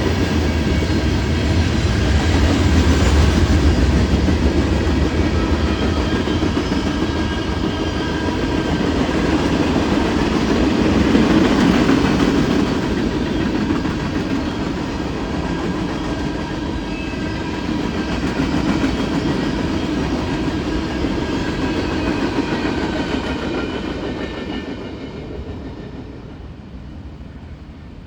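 Canadian National manifest freight train's cars rolling past with a steady rumble and clickety-clack of wheels over the rail joints, fading away over the last few seconds as the train goes by.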